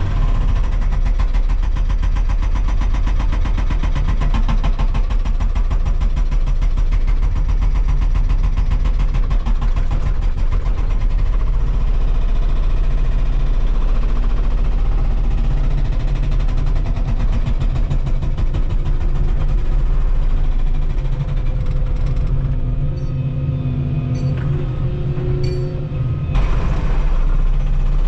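Volvo 235EL excavator's diesel engine and hydraulics working: a steady low drone with a fast, even pulse. About three quarters of the way through it eases off for a few seconds, with a few steady whining tones, then abruptly comes back up to full power.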